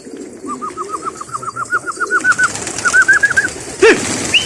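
Domestic pigeons cooing, with a quick run of short, high repeated chirps over them and a loud downward-sliding whistle near the end.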